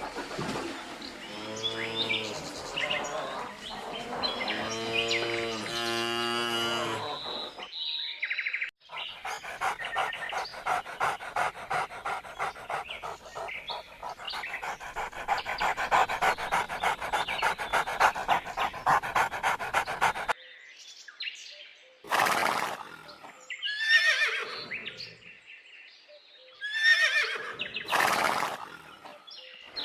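Domestic animal calls in three separate stretches. Repeated pitched calls for the first seven seconds, then a dense rapid chatter from about nine to twenty seconds, then a few separate calls falling in pitch near the end.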